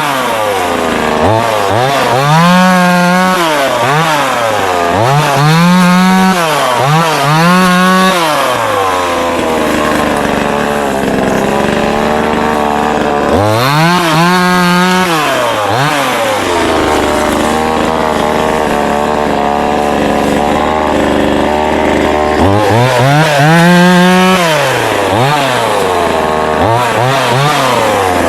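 Neotec NCS2500 two-stroke top-handle chainsaw being revved repeatedly. The engine blips up to full speed, holds briefly and drops back, several times in quick succession, and settles to idle twice for several seconds, about nine seconds in and again at about sixteen seconds.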